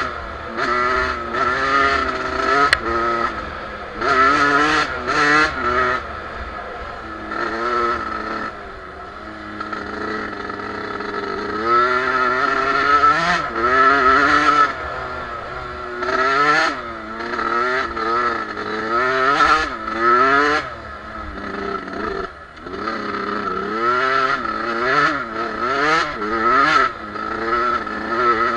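Two-stroke Suzuki motocross bike engine being ridden off-road, revving up and falling back again and again as the throttle is opened and closed.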